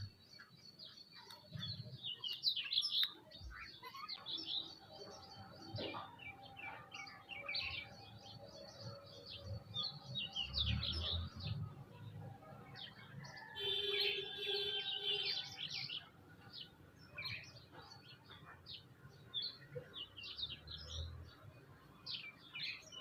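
Several birds chirping and twittering, a steady stream of short, high calls overlapping one another, with a denser burst of calls a little past the middle.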